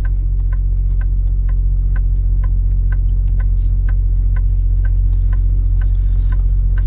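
Semi-truck diesel engine idling steadily with a deep, even hum, with a light tick repeating about twice a second.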